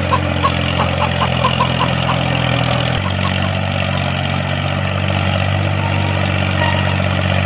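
Engine idling steadily with a low, even hum. The sound shifts abruptly about three seconds in, and faint regular ticks sound in the first couple of seconds.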